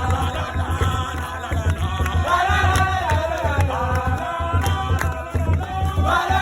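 Singing with a steady drum beat.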